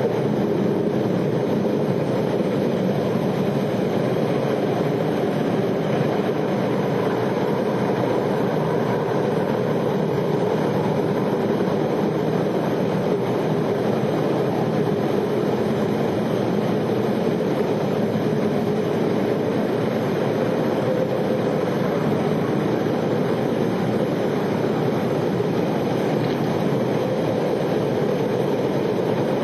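A loud, steady roar, continuous and unchanging, of the kind reported as a mysterious 'roaring noise'.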